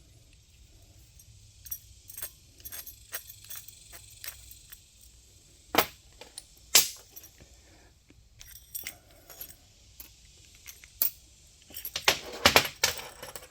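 Sharp metallic clicks and clinks of a hand brake-line flaring tool and its die set being worked and handled. They come scattered, with two loud knocks about six and seven seconds in and a quick run of clinks near the end.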